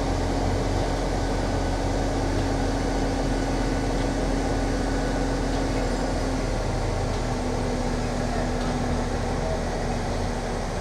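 Heavy crane's diesel engine and hydraulics running steadily under load with a low drone, while a 24-ton crawler track is being lifted. A thin whine runs over it and drops slightly in pitch after a short break about two-thirds of the way through.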